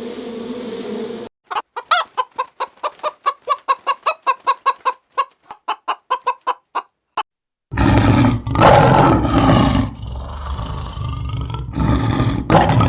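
Chicken clucking in a quick run of about four to five clucks a second for several seconds. It is followed by a loud, rough animal call that breaks off and starts again. A short stretch of steady insect-like buzzing ends abruptly just before the clucking.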